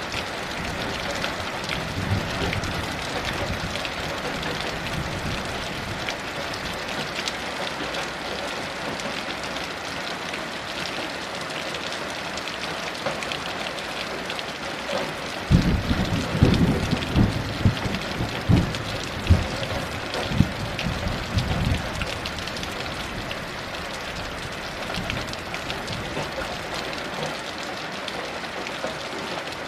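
Steady heavy rain, with a rolling rumble of distant thunder about halfway through that swells in several surges over some six seconds.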